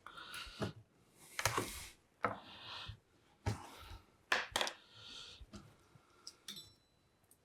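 Light clicks and taps of small plastic parts being handled, with short bursts of rustling scrapes as double-sided tape is worked at a workbench.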